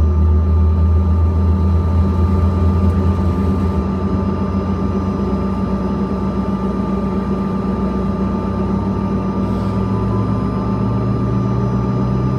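Steady cabin noise inside a Bombardier CRJ-200 jet from its rear-mounted GE CF34 turbofans: a continuous hum with a steady high whine. The deep hum fades about four seconds in, and a slightly higher hum builds near the end.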